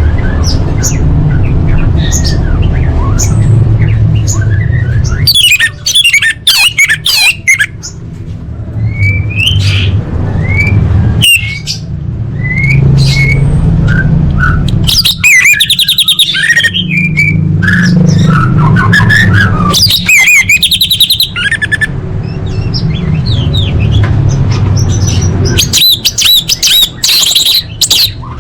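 Female orange-headed thrush calling: a run of quick, high chirps and trills, with a steady low rumble under them that drops out a few times.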